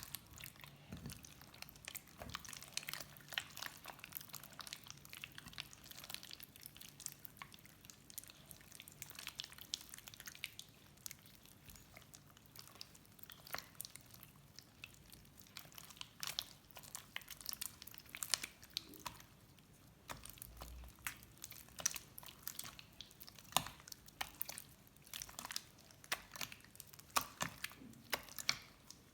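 Slime being squished and worked by hand, giving a steady stream of irregular small sticky clicks and pops that grow denser in the second half.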